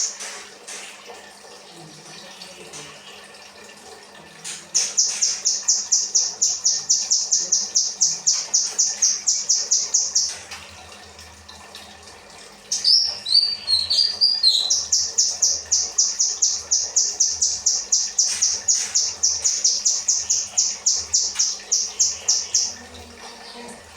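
Kinoi songbird singing its 'rambatan' song: long runs of rapid, evenly repeated high notes, about five a second. There are two runs, with a short varied twitter of sliding notes just before the second.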